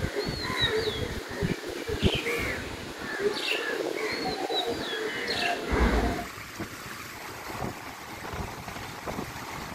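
Small birds chirping in short, rising and falling calls over a steady background hiss, with a low thump or two. About six seconds in the chirping stops and only a quieter hiss remains.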